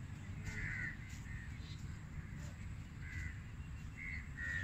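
Birds calling from the trees: about five short calls spread across a few seconds, over a low steady rumble.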